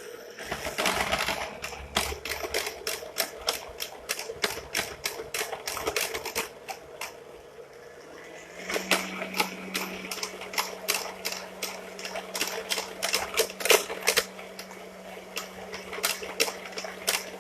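Electric mixer beating cake batter of creamed butter, sugar and egg: a steady motor hum under rapid, irregular clattering of the beaters against the bowl. The hum steps up in pitch about halfway through.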